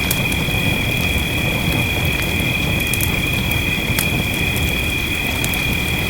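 Wood fire crackling with scattered sharp pops over a steady rush of rain, with a steady high-pitched tone running through it.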